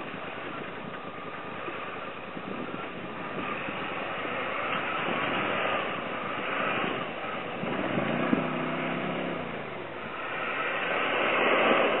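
Off-road vehicle engines running in the mud as a stuck Jeep makes a second attempt to drive out, growing louder in the second half, with a short pitched engine note about eight seconds in.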